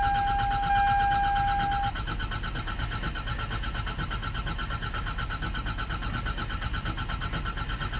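Toyota Celica starter cranking the engine steadily without it catching, in an even fast rhythm, with a steady high warning tone that stops about two seconds in. A hard cold start: the cold start injector is apparently not spraying while cranking because it gets no ground.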